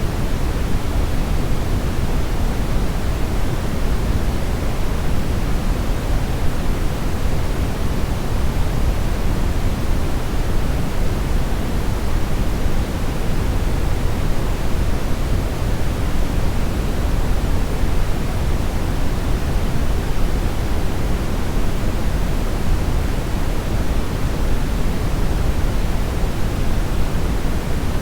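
Steady synthetic brownish noise: an even, constant hiss weighted toward the low end, deepest at the bottom and thinning toward the top, with no distinct events.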